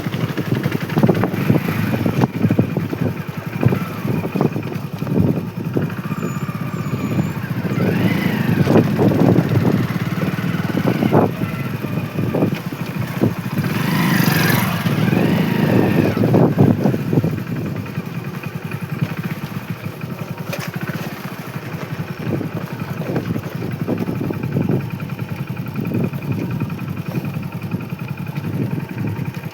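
Motorcycle engine running while riding, a steady rumble with rapid flutter, with louder passing sounds around the middle.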